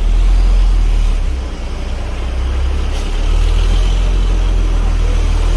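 Heavy truck engine rumbling at close range, a steady deep drone that dips slightly about a second and a half in.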